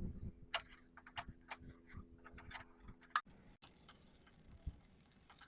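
Faint, irregular light clicks and ticks from a motorbike drive chain and sprocket, over a steady low hum that cuts off a little past three seconds in.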